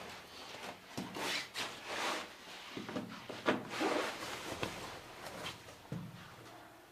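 Irregular rustling and scraping with a few sharp knocks, as of gear or wood being handled.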